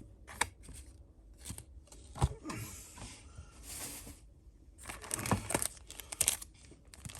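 Yu-Gi-Oh! booster pack wrapper being torn open and crinkled by hand, in irregular rustling bursts and clicks: a pack that is hard to open.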